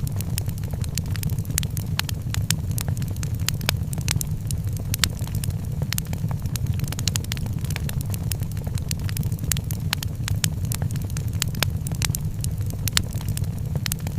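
Wood fire in a fireplace crackling, with many sharp, irregular pops and snaps over a steady low rumble of the burning fire.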